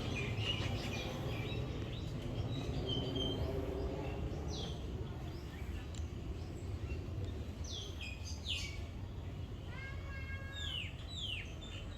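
Birds calling: scattered short chirps and down-slurred whistles, with a quick run of falling calls and a harsher call about ten seconds in, over a steady low background rumble.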